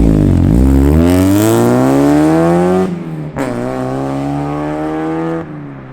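Mazda Miata four-cylinder engine through a loud aftermarket ISR Performance exhaust, pulling hard with its pitch rising. About three seconds in the engine note drops briefly, then climbs again and cuts off sharply near the end.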